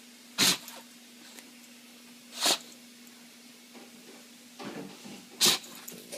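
Bulldog sneezing sharply three times, the sneezes about two and three seconds apart, with softer breathy sounds just before the third.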